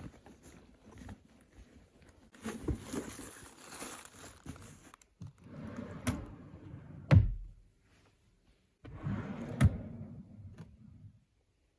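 Household handling sounds: rustling with a few knocks or thumps, the loudest about seven seconds in, like things being moved about and a drawer or cupboard being shut.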